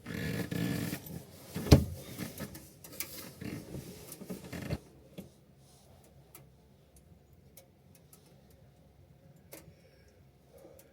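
Rustling and clattering handling noise with one sharp knock about two seconds in, stopping abruptly after about five seconds, then a quiet background with a few faint ticks.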